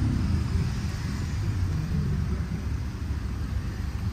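Low, steady rumble of street traffic, with a vehicle engine running close by.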